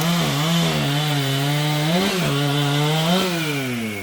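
Large professional chainsaw running at high revs, cutting wood, its engine note wavering as the chain loads up. The revs start to drop near the end.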